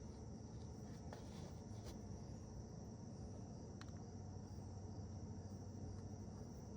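A faint, steady high-pitched insect trill, with a few faint clicks or taps of work.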